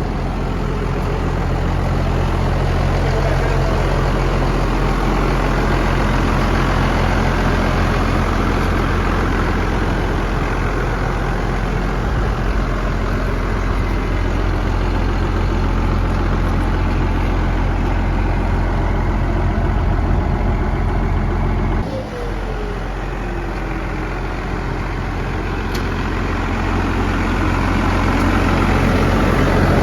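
A 1993 Dodge Ram's 5.9 12-valve Cummins inline-six turbo diesel idling steadily, just revived after years of sitting. About two-thirds of the way through the sound changes abruptly and dips briefly, then builds back up.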